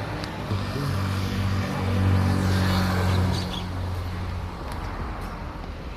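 A motor vehicle's engine running on the road, a steady low hum that grows louder about two seconds in and fades toward the end, over outdoor traffic noise.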